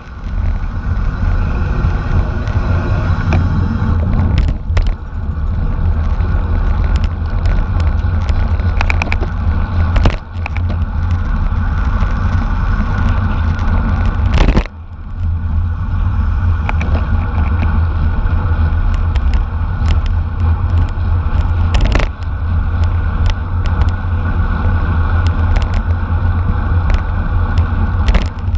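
Wind buffeting the microphone of a camera on a racing bicycle at speed, a loud steady low rumble, with occasional sharp knocks and rattles from road bumps.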